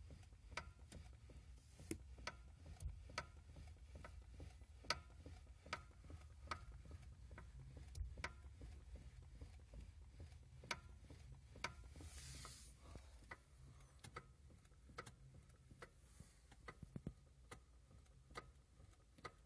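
Faint, irregular light knocks from a Lada Granta's electric power steering unit, one to three a second: the metal-on-metal knock that the owner suspects is the power steering fault. A brief hiss about twelve seconds in.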